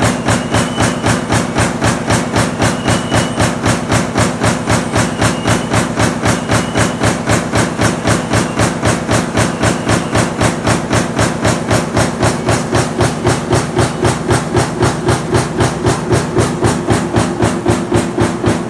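Power press running a lamination stamping die for kitchen-fan motor cores, striking in a fast, even rhythm of a few strokes a second over a steady hum.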